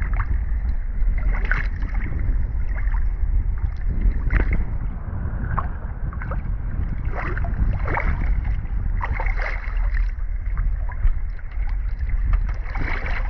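Wind buffeting the microphone on a small boat out on open water, a steady low rumble, with water splashing and slapping irregularly every second or two.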